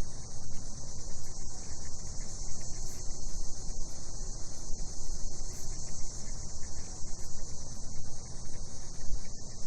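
A chorus of cicadas buzzing steadily and continuously at a high pitch, over a low, uneven rumble.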